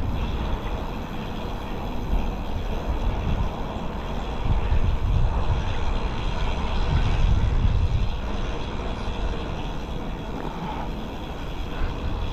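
Wind rushing over the microphone of a camera riding along on a moving bicycle, a steady low rumble that swells in the middle and eases off again.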